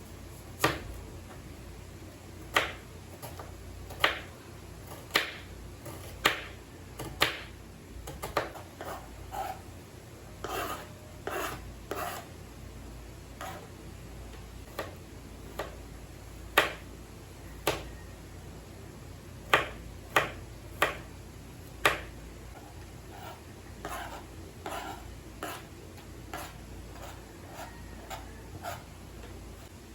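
Knife chopping on a cutting board: sharp single knocks, irregularly spaced about a second apart, with quieter clusters of smaller knocks between them.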